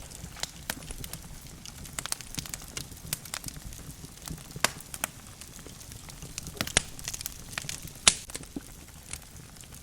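Wood logs burning in a fireplace: irregular sharp crackles and pops over a low steady hiss, with two louder pops near the end.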